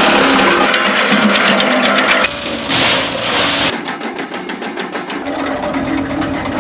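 Engine-driven wood chipper running at speed with a fast mechanical rattle. A brighter, hissier stretch from about two to nearly four seconds in.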